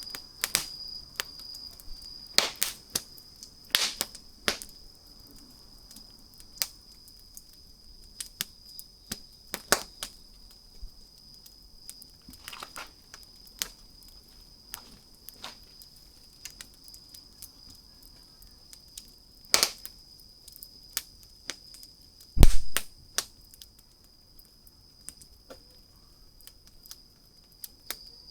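Wood fire crackling: sharp pops and snaps at irregular intervals, with one loud, heavier pop a little past two-thirds of the way through. A steady high-pitched tone runs underneath.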